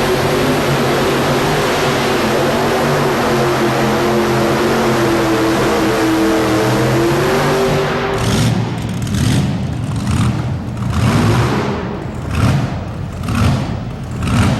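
Modified pulling tractor's engine running hard at high revs with a steady drone, then from about eight seconds in being blipped in short revs roughly once a second.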